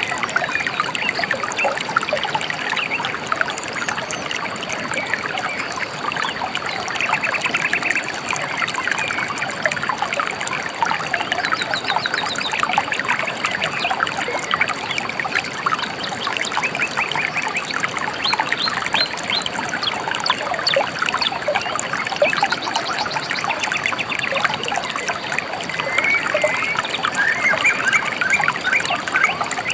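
A small river or stream trickling and burbling steadily, with several songbirds chirping and trilling over it.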